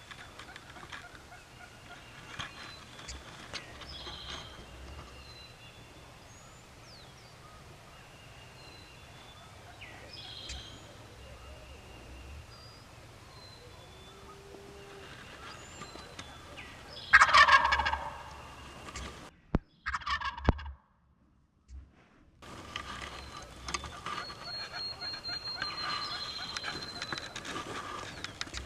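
Wild turkey gobbler gobbling, one loud rattling gobble a little past halfway and a shorter one a few seconds later, with small songbirds chirping throughout.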